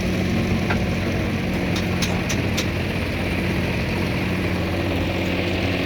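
An engine idling steadily, with a few light clicks about two seconds in.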